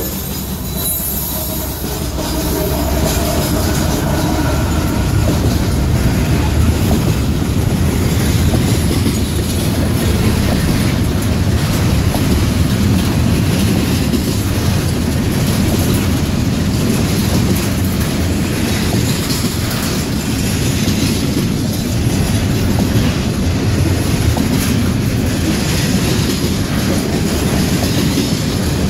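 Kansas City Southern intermodal freight train passing close by: a loud, steady rumble of steel wheels on the rails as the locomotive and then the container and trailer cars roll past.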